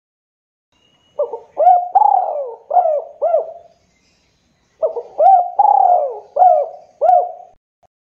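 Spotted dove (tekukur) cooing: two phrases of about five notes each, with a gap of about a second between them.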